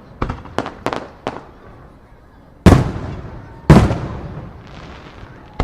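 Aerial firework shells bursting: four quick bangs in the first second and a half, then two heavy booms about a second apart that echo and die away slowly, a faint crackle after them, and another bang right at the end.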